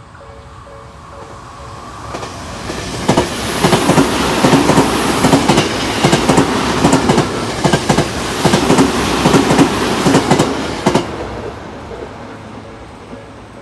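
Tokyo Metro Hanzomon Line electric train passing close by at speed on ballasted track. The sound builds and then fades, with rapid wheel clicks over rail joints through the loudest middle stretch.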